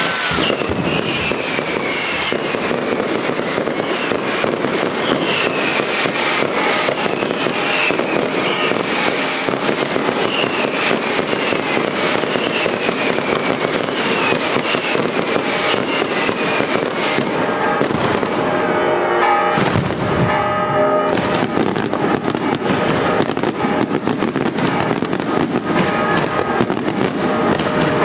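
Daylight fireworks display: a dense, continuous barrage of rapid bangs and crackling, with repeated falling whistles from whistling shells through the first half.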